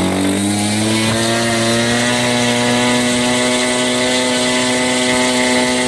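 Four-stroke engine of a large-scale RC biplane running steadily at reduced throttle after being throttled back, its pitch creeping up a little over the first couple of seconds and then holding.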